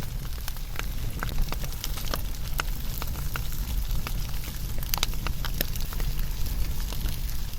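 Wood fire burning, with irregular sharp crackles and pops over a low, steady rumble of flame.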